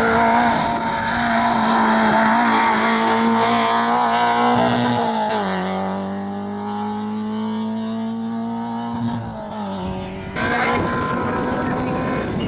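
Rally car engine running at high, steady revs. The pitch drops once, about five seconds in, and holds there. Near the end the sound cuts abruptly to another car's engine.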